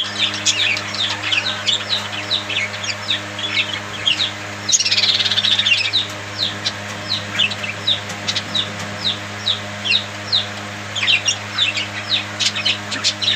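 A flock of budgerigars chirping and chattering in quick, overlapping short calls. About five seconds in there is a louder, denser stretch of warbling that lasts roughly a second.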